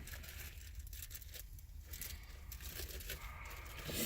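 Faint rustling and crinkling of plastic bags as bagged pipe tobacco samples are handled and sorted through.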